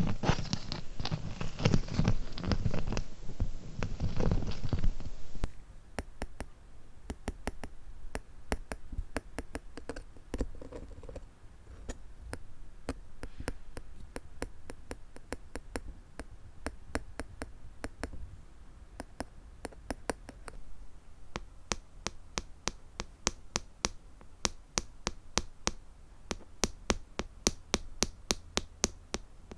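Fingernails tapping on hard plastic cubic gems. For the first five seconds there is a denser, duller handling sound. After an abrupt change it becomes a run of crisp, separate clicks that quicken to about three or four a second near the end.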